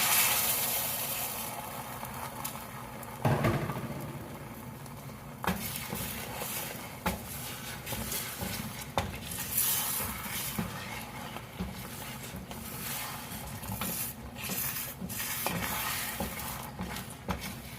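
Beaten eggs sizzling in a hot pan as they are scrambled, with a utensil scraping and knocking against the pan at irregular moments. The sizzle is loudest in the first second or so, then settles into a steady hiss.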